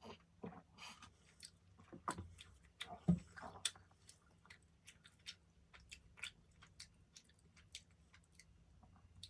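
A person chewing a soft pastry close to the microphone, with many small wet mouth clicks and smacks. There are a few louder bites about two and three seconds in.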